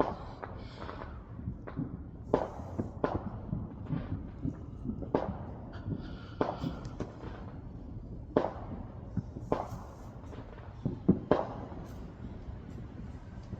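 Fireworks and firecrackers going off, a scatter of sharp pops and bangs at irregular intervals over a low steady rumble. The strongest cracks come near the middle and in the last few seconds.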